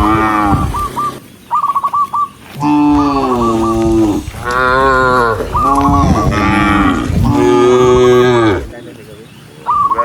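A herd of cattle mooing: about five long, drawn-out moos from several cows in a row, some overlapping, with a short gap near the end.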